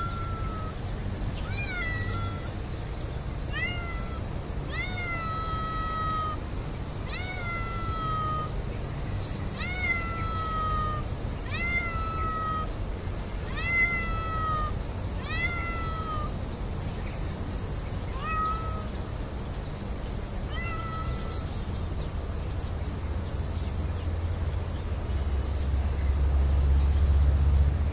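Cat meowing over and over, more than a dozen high mews about a second apart, each rising sharply and then falling away; the mews thin out and stop about three-quarters of the way through. A low rumble builds near the end.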